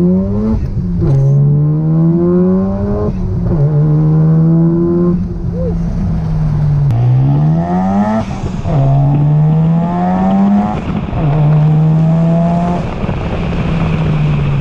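Mazda RX-7's 13B twin-rotor engine on stock sequential twin turbos, accelerating through the gears. The pitch climbs and then drops at each shift, about six times over.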